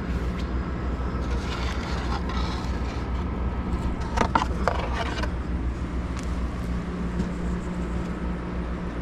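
Steady low mechanical hum, with a few sharp clicks about four to five seconds in.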